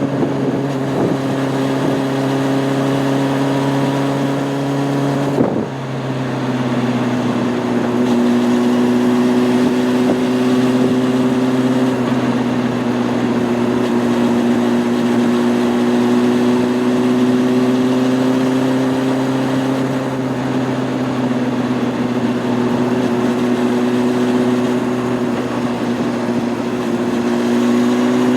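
Honda CB600F Hornet's inline-four engine running under way, heard from on the bike with wind rush. Its pitch drops suddenly about five seconds in at an upshift, then holds steady with slight rises and dips at cruising revs.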